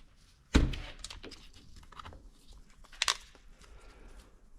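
A sharp knock about half a second in, then scattered light clicks and two quick knocks about three seconds in: metal tools and engine hardware being handled on a workbench.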